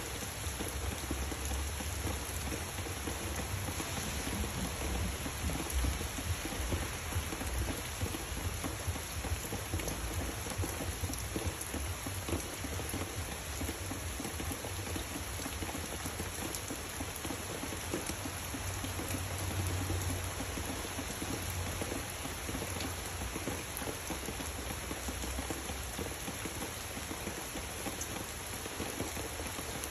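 Steady rain falling on the leaves of dense trees and vines, an even patter throughout. A low rumble swells underneath a few seconds in and again about twenty seconds in.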